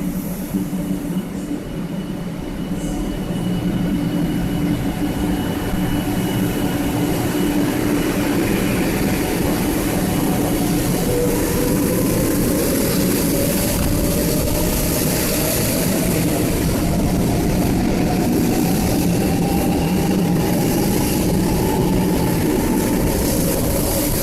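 500 series Shinkansen train pulling away: the motor whine rises slowly in pitch as it picks up speed, over a steady rumble of wheels on rail that grows louder in the first few seconds and then holds.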